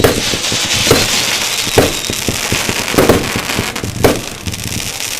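Fireworks display: five loud aerial shell bursts, about a second apart, over continuous rapid crackling.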